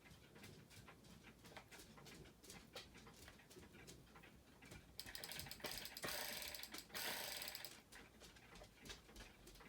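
Packaging being worked off a boxed toy: faint repeated small clicks, with two short bursts of rustling plastic, about five and seven seconds in.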